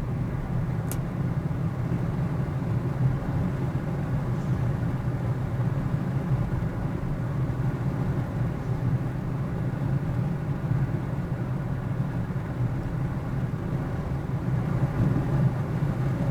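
Car driving on the road, a steady low rumble of engine and tyre noise picked up by a dashcam, with a brief click about a second in.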